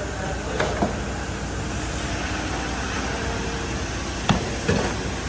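Steady machinery noise in a tyre factory, with a few sharp knocks: two about half a second in and two near the end.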